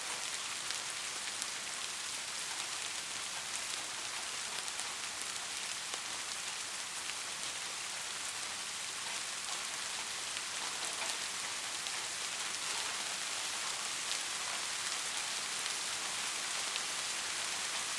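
Heavy rain falling steadily, a dense even hiss with scattered sharper raindrop ticks.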